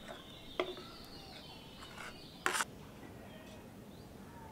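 Birds chirping faintly, with a sharp click just over half a second in and a short, louder clatter about two and a half seconds in.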